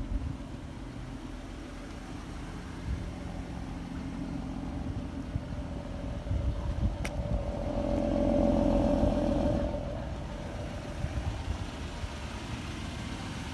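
2014 Ford Mustang's 3.7-litre V6 engine running steadily, rising in level for a couple of seconds about two-thirds of the way through before settling back.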